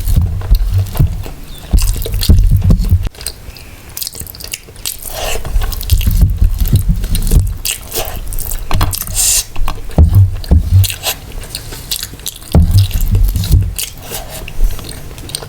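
Close-miked eating sounds: a person chewing and biting mutton biryani and mutton curry, with wet mouth clicks and smacks. The chewing comes in bouts of a second or two, each with a deep thudding low end.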